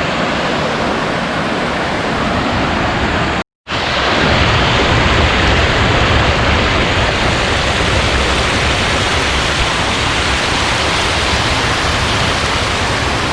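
Mountain stream or waterfall water rushing in a steady roar. It cuts out for an instant about three and a half seconds in, then comes back a little louder and deeper.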